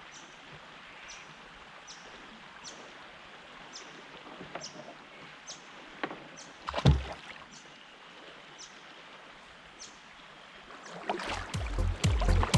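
Quiet outdoor river ambience with a faint high chirp repeating about every three-quarters of a second. A single knock or splash comes about seven seconds in. Background music with a heavy beat fades in near the end.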